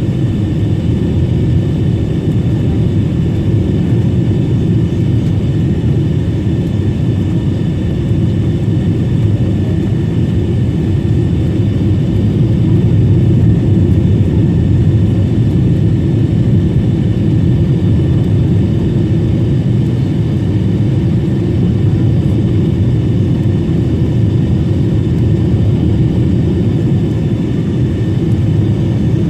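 Steady cabin noise inside a Boeing 777-300 airliner: a low rumble of jet engines and airflow, with faint high tones running under it.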